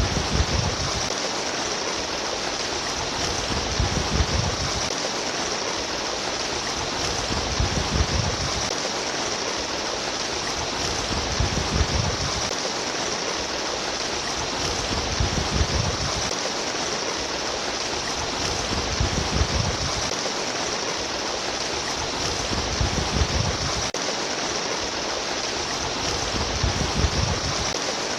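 Steady trickling, babbling water, with a low gurgling swell that comes back regularly about every four seconds.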